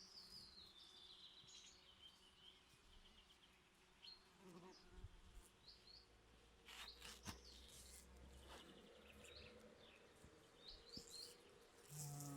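Faint buzzing of bees at flowers, with songbirds chirping and one falling trilled phrase in the first two seconds.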